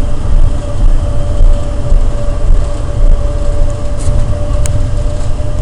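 Denver airport's underground automated people-mover train running at speed through a tunnel, heard from inside the car: a loud, steady low rumble with a steady whine over it and a couple of brief ticks about four seconds in.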